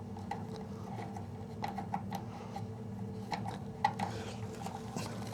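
Small metal clicks and light taps of fittings and tubing being handled and hand-threaded on a gas water heater's burner assembly, a few sharper clinks among them, over a steady low hum.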